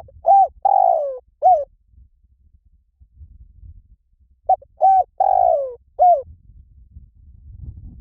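Spotted dove cooing: two calls about four and a half seconds apart, each of four short notes, the third note longer and falling in pitch.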